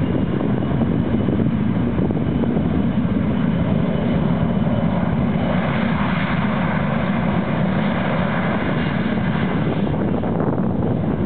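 Jet engine noise from a Boeing 737-500's CFM56 turbofans during takeoff: a steady rushing sound with a faint high whine. It grows brighter in the middle and thins out near the end.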